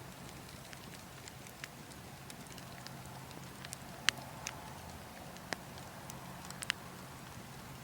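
Wood logs burning in a fire, crackling with irregular sharp pops, the loudest about four seconds in, over a steady low rush of wind.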